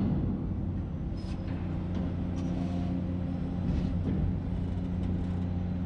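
Heavy diesel machinery running steadily with a low engine hum, with a few faint clanks over it.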